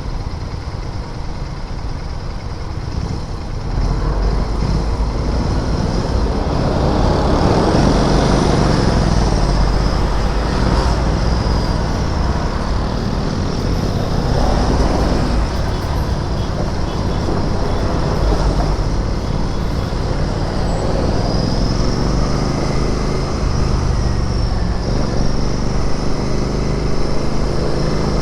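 Royal Enfield Interceptor 650's parallel-twin engine running in city traffic: low and steady for the first few seconds, then louder from about four seconds in as the bike moves off, with the engine note rising and falling and revving up again near the end, amid surrounding traffic noise.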